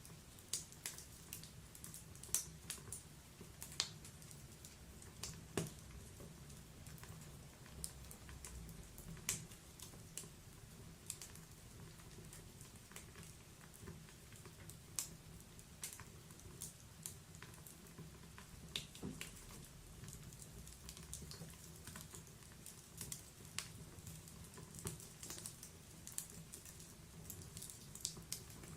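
Wood fire crackling: irregular small snaps and pops from burning logs, a few sharper pops standing out, over a faint low hum.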